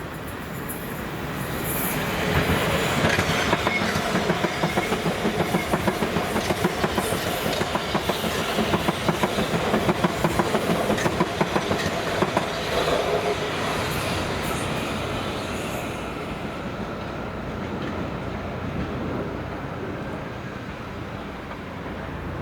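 Train passing through a station, building up over the first couple of seconds. Its wheels then clatter over rail joints in a fast, even clickety-clack for about ten seconds before the sound fades away.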